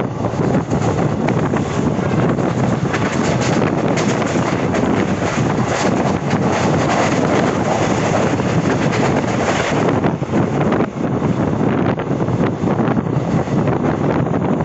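Passenger train running at speed, heard from on board: a steady rumble and rush of the coach over the track with wind buffeting the microphone. The hiss eases a little about two-thirds of the way through.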